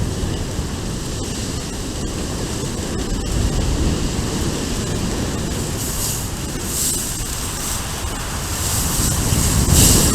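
Wildfire burning close to the camera: a steady low roar, with hissing flare-ups about six seconds in and again near the end.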